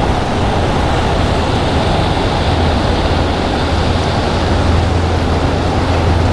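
Boat engines running with a steady low drone over rushing water and wind noise, growing slightly louder.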